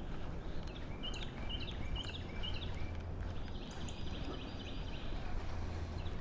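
A songbird singing a run of short, repeated chirping notes, about three a second, in the first half, with fainter notes later, over a steady outdoor noise.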